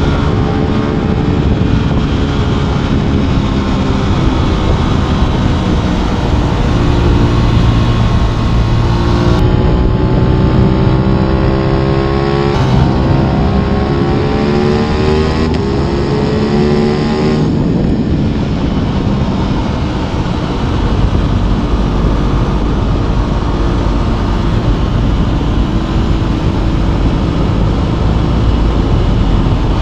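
Aprilia RS 660 parallel-twin engine pulling hard with rising revs, a quick upshift, and a second run of rising revs before the throttle eases off. Steady wind rush on the microphone runs underneath.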